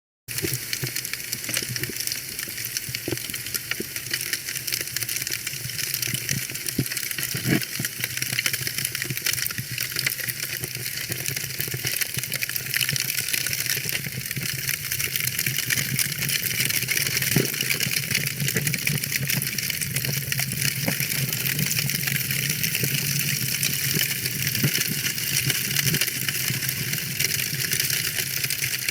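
Wood fire burning in a fireplace, crackling continuously with scattered louder pops.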